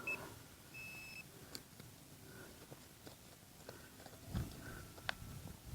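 Metal detector giving a short, high, steady beep about a second in, then fainter lower tones a few times, signalling a target in the ground. Faint scattered clicks and a soft scrape come near the end.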